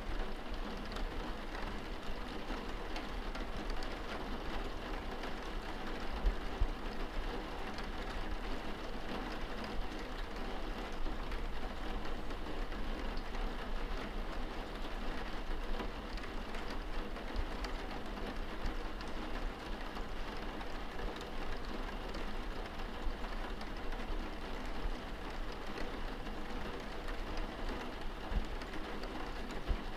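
Steady rain heard from indoors, pattering on a window pane, with scattered louder drips tapping on the glass.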